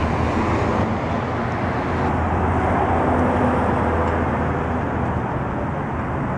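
Steady street traffic noise: a continuous wash of passing cars with a low rumble.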